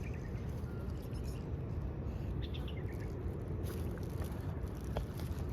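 Steady low rumble of city street background noise, with a few faint, brief high chirps.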